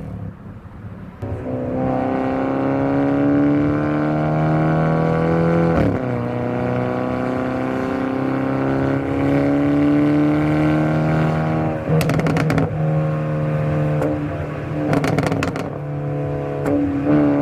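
Hyundai Elantra N's turbocharged 2.0-litre four-cylinder engine and exhaust under acceleration. The note climbs for several seconds, breaks sharply at a gear change about six seconds in, then holds and sags slightly. Two short bursts of exhaust crackling follow, about twelve and fifteen seconds in, before the engine note returns.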